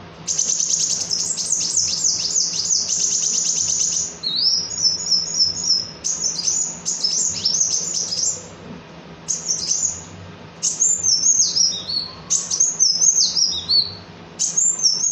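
Kolibri wulung sunbird singing a high, fast twittering song: a dense rapid trill for the first four seconds or so, then short phrases of quick stepping, falling notes with brief pauses between them.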